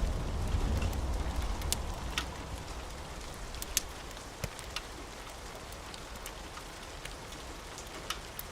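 Steady rain, with the low rumble of a thunderclap dying away over the first couple of seconds. Scattered sharp clicks and pops sound through it.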